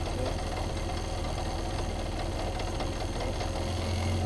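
Fiat 131 rally car's engine idling, heard from inside the cabin, growing a little louder near the end.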